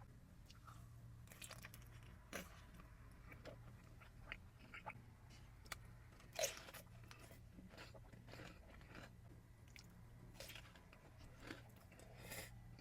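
A person chewing and biting pizza: faint, irregular crunches and mouth clicks, the loudest about six and a half seconds in.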